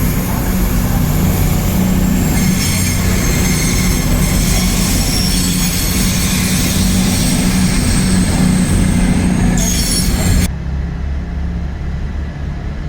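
A train moving through the station, a steady low hum under high-pitched squealing of its wheels on the rails; the squeal cuts off suddenly about ten seconds in.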